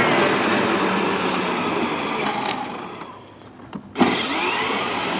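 Battery-powered ride-on toy car running, its electric motor humming and its wheels rolling. It stops for a moment about three seconds in, then a sharp click and it runs again.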